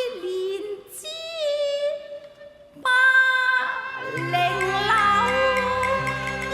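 Cantonese opera music: a held, gliding melodic line, then about three seconds in a louder accompaniment comes in, with steady stepping bass notes from about four seconds in.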